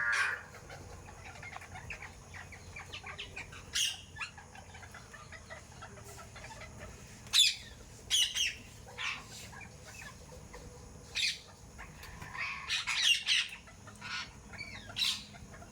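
Parrots and sparrows calling: short, sharp, high calls and chirps at scattered moments, thickest in a burst of several calls about three quarters of the way through.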